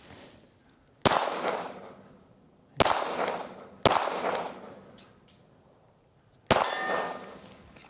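Four pistol shots at steel targets, each followed by the ringing clang of a struck steel plate. The shots come about a second and a half to two and a half seconds apart.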